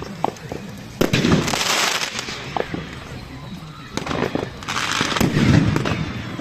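Fireworks going off: sharp bangs about a second in and again about four seconds in, each followed by a crackling hiss, with scattered small pops between.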